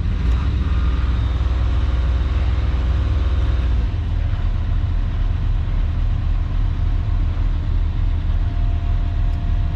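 Caterpillar 307.5 mini excavator's diesel engine idling steadily just after starting, heard from inside the cab. The deep drone shifts and eases slightly about four seconds in.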